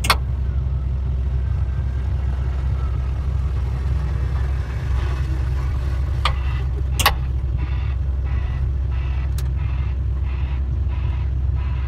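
A heavy engine or machine running with a steady low rumble, with a few sharp knocks; from about seven seconds in a rhythmic clatter repeats two or three times a second.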